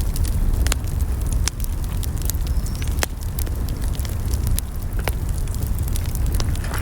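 Firewood burning in an open wood fire, giving irregular sharp crackles and pops over a low steady rumble.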